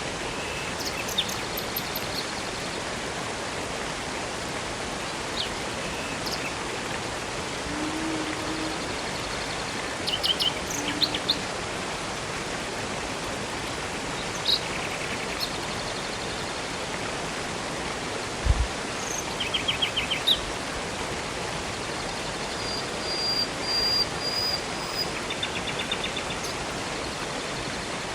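Steady rushing of a river and waterfall, with birds chirping and giving short quick trills now and then over it. A brief low thump about two-thirds of the way through.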